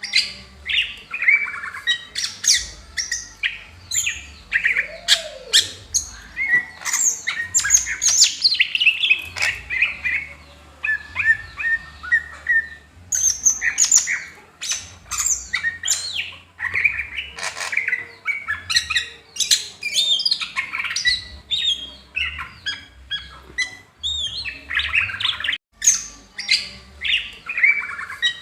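Green leafbird (cucak hijau) singing a long, fast, varied song of sharp chirps, quick whistled slurs and harsh squawk-like notes, with a brief break near the end.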